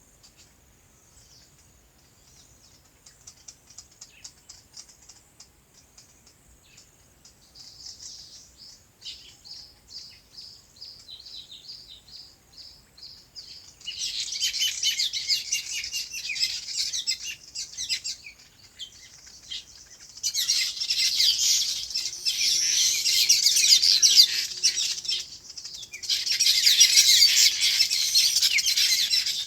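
Many small birds chirping. The calls are sparse and faint at first, then build into dense, loud spells of chattering: about halfway through and twice more near the end.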